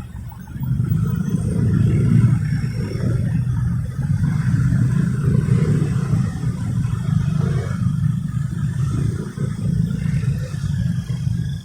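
Motorcycle engine running as the bike rides through traffic, heard from on the bike. The sound swells about half a second in and dips briefly twice.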